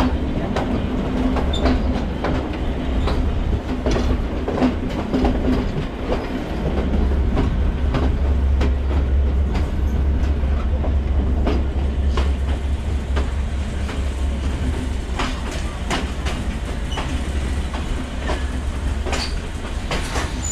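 Udaya Devi Express passenger train running along the line, its wheels clicking irregularly over rail joints above a steady low rumble.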